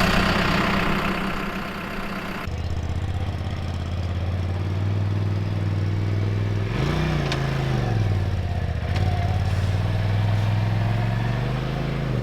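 A vehicle engine running steadily at low revs, its pitch rising and falling back as it is given throttle about seven seconds in and again near the end. Before a cut about two seconds in there is more hiss over the engine.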